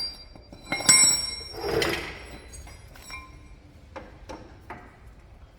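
Metal tools clinking against steel suspension parts: a sharp ringing clank about a second in, a short rough rush just after, then a few light taps.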